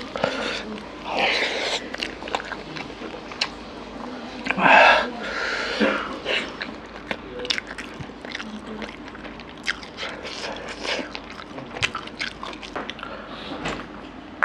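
Close-up mouth sounds of a man eating bone-in mutton curry by hand: wet chewing, biting and lip smacks with many short sharp clicks, and two louder, longer wet noises in the first six seconds.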